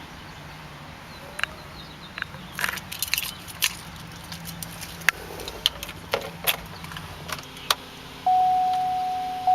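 Scattered clicks and taps of hands on the cabin trim and controls over a faint steady hum, likely the idling engine. About eight seconds in, a loud single-pitched electronic warning tone starts suddenly and holds, slowly fading.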